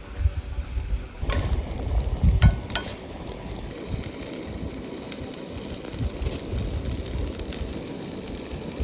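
Food sizzling as it fries in a pan, a steady crackling hiss, with a few sharp knocks between one and three seconds in.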